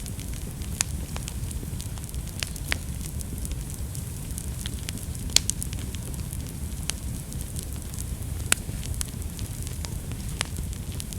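Wood fire burning in a fireplace: a steady low rumble of flames with frequent sharp crackles and pops at irregular intervals, two louder pops about five and a half and eight and a half seconds in.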